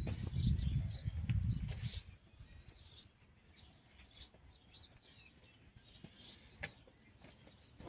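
Low, muffled handling noise for the first two seconds, then faint bird chirps with a single sharp click about six and a half seconds in.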